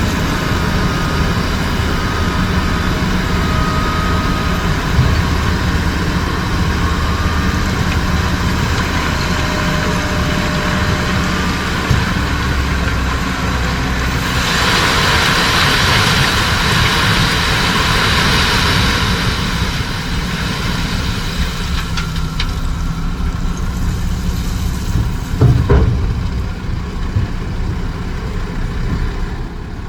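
Heavy diesel dump truck engine running steadily at low revs. About halfway through, a hissing rush lasts for several seconds, and there are a couple of knocks near the end.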